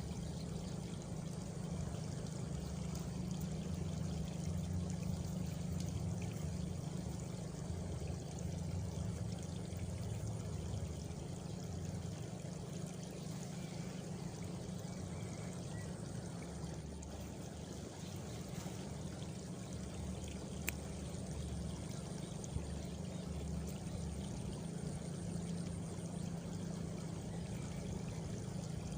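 Steady rushing noise like flowing water in a rural night ambience, with a faint high insect trill for a few seconds in the second half and two brief clicks about two-thirds of the way through.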